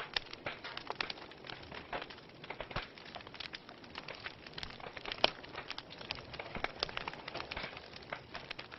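Wood fire burning in a fireplace, crackling with irregular snaps and pops over a soft hiss; the sharpest pop comes about five seconds in.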